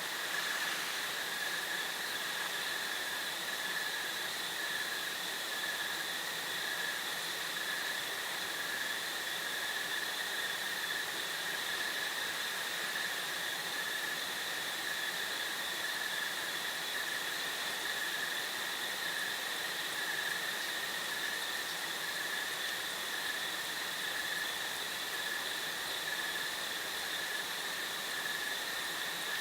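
Crickets chirping in a steady, unbroken chorus: a continuous high drone at two pitches over a faint hiss of background air.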